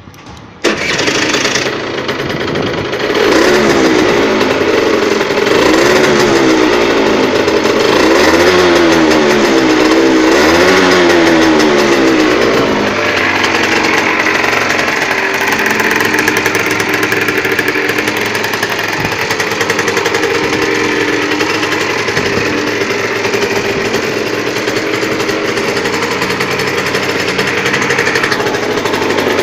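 Yamaha TZR two-stroke single-cylinder bored to 80 cc, with a 21 mm Dell'Orto carburettor and an Arrow expansion exhaust. It catches suddenly about a second in, is blipped up and down in repeated revs, then runs steadily for the second half.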